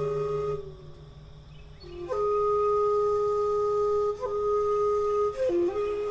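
Flute playing slow, long held notes: one note ends about half a second in, then after a short pause a single note is held for about three seconds, followed by a few short notes near the end.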